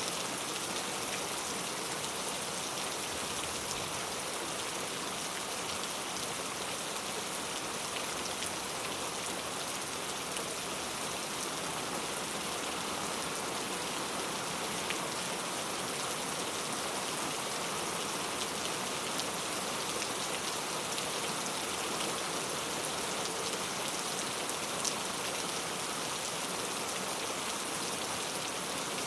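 Heavy rain falling steadily on hard urban surfaces, a dense even hiss of many drops with fine patter ticks.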